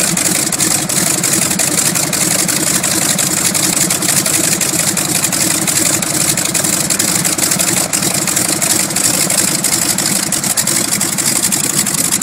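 Boeing P-26 Peashooter's nine-cylinder Pratt & Whitney R-1340 Wasp radial engine running steadily at idle while warming up.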